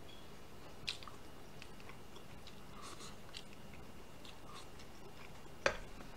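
Faint chewing and small clicks of wooden chopsticks against a small ceramic bowl while eating fried rice. A sharper clink near the end as the bowl is set down on the plate.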